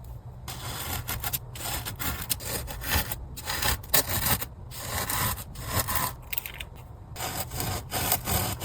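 Hand and fingers rubbing and sweeping sand across a sand-painting surface, in a run of irregular scraping strokes.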